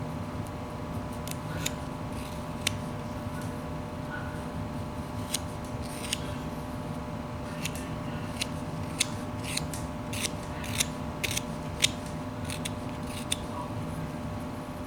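A whittling knife slicing wood: irregular sharp snicks of the blade taking small chips, coming thicker in the second half. A steady low hum runs underneath.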